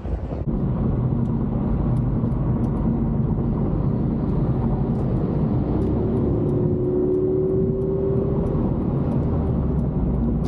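A car running steadily, engine and road rumble. Partway through, a thin tone rises slightly for a couple of seconds.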